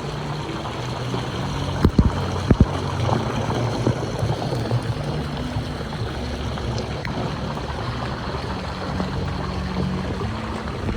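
Steady rush of running water around a pool, with music playing in the background and a few sharp knocks about two seconds in.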